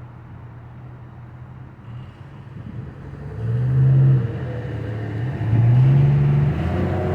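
A motor running with a steady low hum, then revving up twice, its pitch rising each time, the second swell about two seconds after the first.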